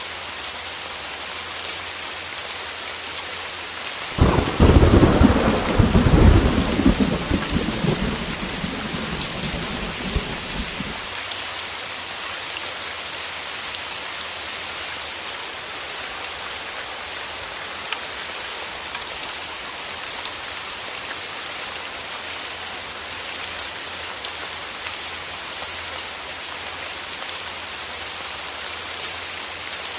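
Heavy rain falling steadily, with one clap of thunder about four seconds in that rumbles for several seconds and fades away.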